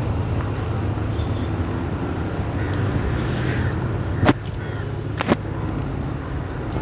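Local passenger train running with a steady low rumble, broken twice by a sharp crack about a second apart.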